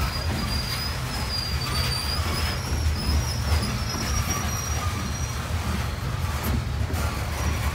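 Freight cars of a CSX coal train rolling past, a steady low rumble of wheels on rail. A thin, high wheel squeal wavers above it and fades out about five seconds in.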